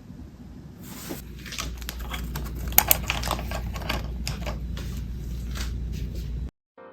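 A quick, irregular run of light clicks and taps over a steady low hum, cutting off suddenly near the end.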